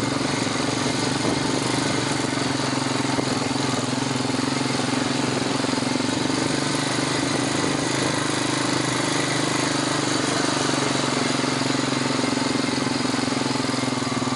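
Four-wheeler (ATV) engine running steadily at slow riding speed, a constant hum with no changes in pitch or level.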